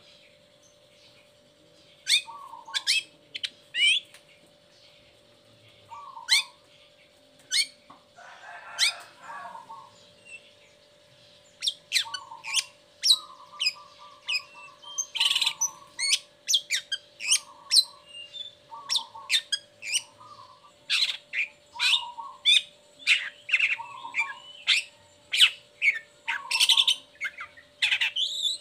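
Long-tailed shrike (cendet) singing a rapid string of sharp, high chirps that sweep downward, with short lower notes between them and a harsh, scratchy burst about eight seconds in.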